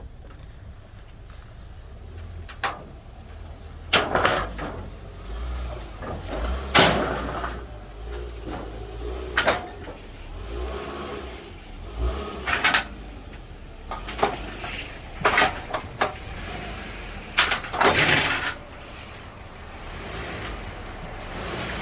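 A vehicle engine running low and steady under about a dozen sharp, irregularly spaced metallic clanks and bangs, during the loading of cars onto a car-hauler stack trailer.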